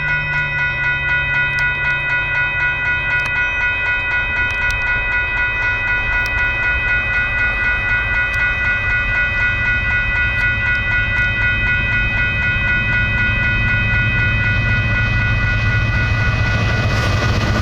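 Railroad crossing bell ringing in a steady rhythm while the rumble of an approaching freight train grows louder, swelling as the train reaches the crossing near the end.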